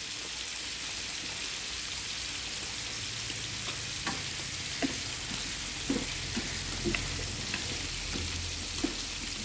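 Squid and pineapple stir-frying in a non-stick pan: a steady sizzle, with a few light clicks as the food is stirred with chopsticks.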